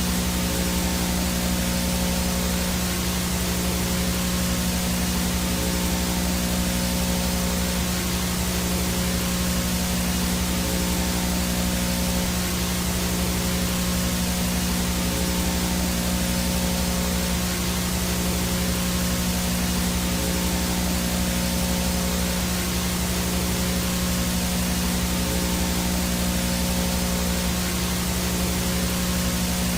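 Analog VHS static: a steady hiss of white noise with a constant low electrical hum and faint steady tones under it, unchanging throughout.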